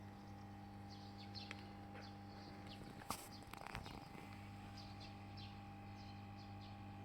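Small birds chirping faintly, short high chirps repeated on and off, over a steady low hum. A sharp click about three seconds in, followed by a brief rustle.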